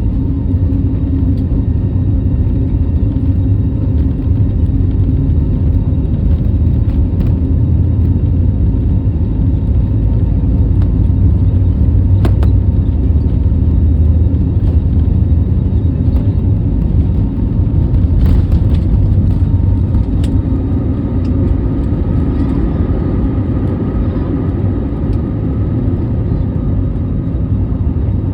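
Airliner jet engines and airframe heard from inside the passenger cabin: a loud, steady low rumble, with a faint high whine coming in about two-thirds of the way through.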